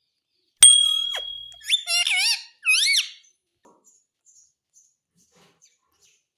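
Pet ring-necked parakeet calling: a high whistle held for about a second, then two warbling, squeaky calls that wobble up and down in pitch.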